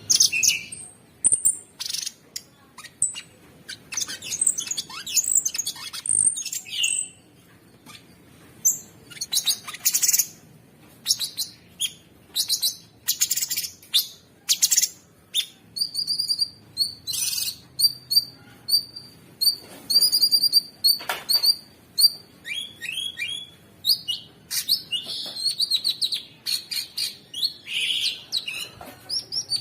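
Cucak sungkok singing a harsh, non-stop song: a rapid, varied run of sharp chirps and clicks, with a string of short, evenly repeated high whistled notes partway through.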